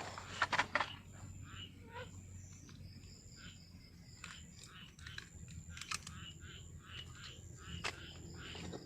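Night chorus of frogs and insects: short chirps repeating evenly, about two or three a second, over an on-and-off high thin buzz. A few sharp clicks and knocks from handling gear break in, the loudest about half a second in.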